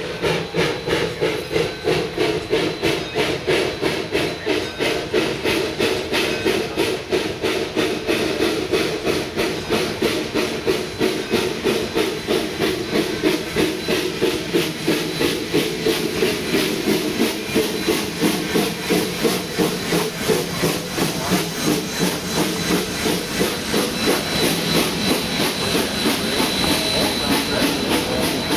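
D&RGW No. 346, a narrow-gauge 2-8-0 Consolidation steam locomotive, working with a steady exhaust chuff of about two to three beats a second over a continuous steam hiss.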